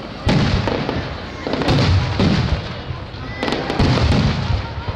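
Starmine barrage of aerial firework shells bursting in quick succession: several heavy booms, roughly a second apart, with crackling between them.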